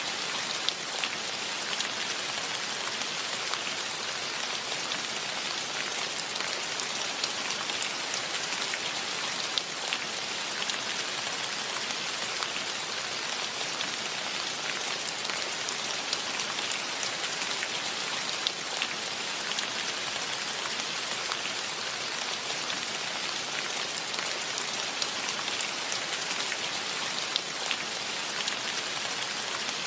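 Steady rain falling on foliage and ground, an even hiss with scattered individual drops ticking louder now and then.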